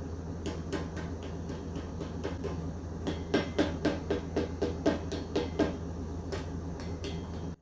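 Electric mixer running with a steady hum, its beaters knocking and clattering against the bowl in quick irregular strikes, most densely in the middle of the stretch.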